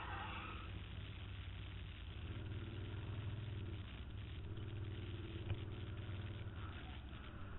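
Can-Am Spyder three-wheeler's engine running near idle as it rolls slowly, its note rising a little twice. A single sharp click about five and a half seconds in.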